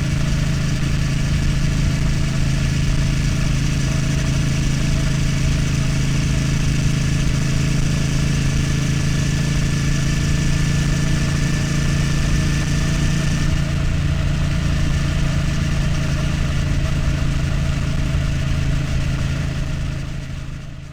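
Triumph Street Twin's parallel-twin engine running steadily at an unchanging pitch, with no revving, fading out near the end.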